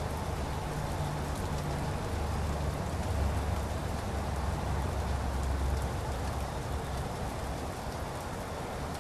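Light rain falling: a steady hiss dotted with many small drip ticks, over a low steady rumble that swells a little in the middle.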